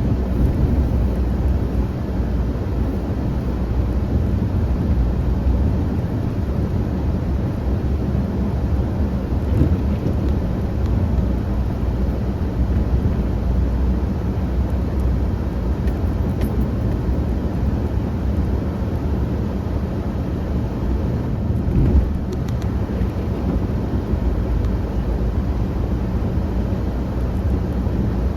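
Engine of a snow-clearing vehicle running steadily as it pushes snow, a continuous low rumble with a faint steady hum, and a brief thump about three quarters of the way through.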